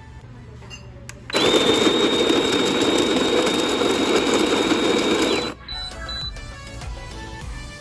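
Electric conical burr coffee grinder with a 165-watt DC motor, switched on about a second in and run for about four seconds before cutting off. It makes a steady high whine over a loud rush.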